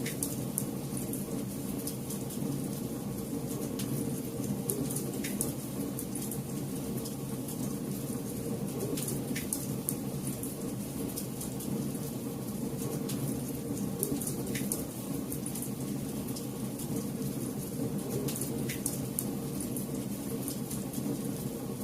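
Wood campfire burning: a steady low rush of flames with frequent sharp crackles and pops, a few of them louder.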